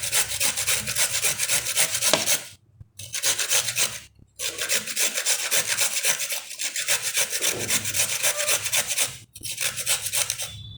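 A carrot being grated by hand on a grater: rapid rasping strokes with a few brief pauses.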